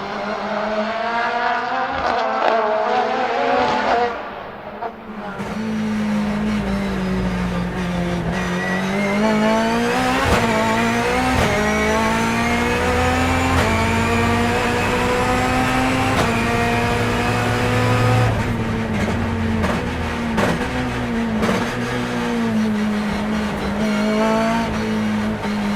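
Turbocharged BMW S14B20 four-cylinder engine of a BMW E36 time-attack car at full throttle, revs climbing and dropping sharply at each quick sequential-gearbox upshift, with some easing and downshifts later on. The sound dips briefly about four seconds in.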